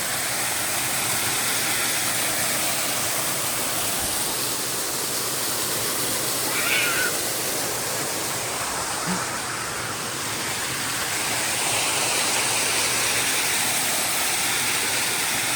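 Waterfall rushing steadily, an even wash of falling water. A short high-pitched sound rises above it about seven seconds in.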